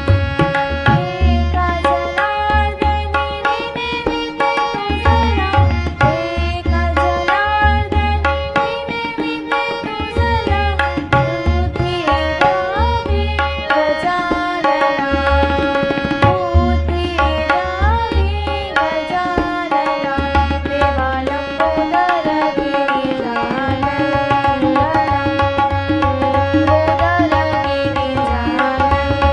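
Marathi bhajan music: tabla playing a busy rhythm with deep bass strokes, under a held drone note and a bending melody line.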